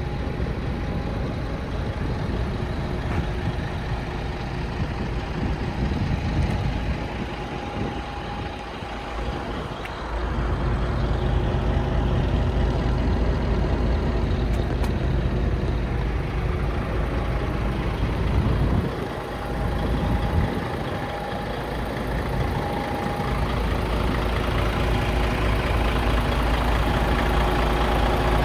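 DAF CF 85 truck's six-cylinder diesel engine running, with a steady whine over it. The engine note gets heavier about ten seconds in, eases off around twenty seconds, then builds again.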